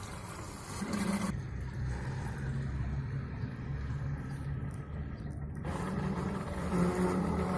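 A homemade RC boat's motor and propeller running on the water with a steady hum. Its pitch shifts with the throttle, higher briefly about a second in and again in the last couple of seconds.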